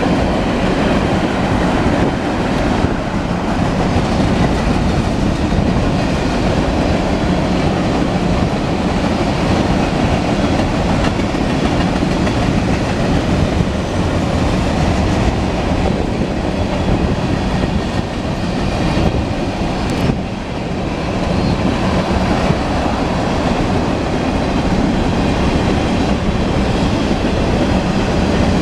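Freight train cars rolling steadily past, their wheels running on the rails.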